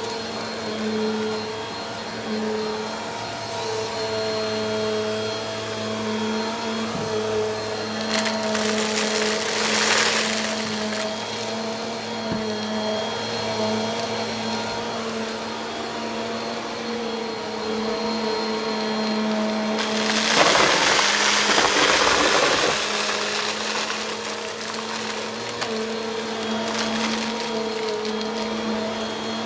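Bissell vacuum cleaner running with a steady motor hum. A louder rush of air swells about eight seconds in and again at about twenty seconds, each lasting a few seconds.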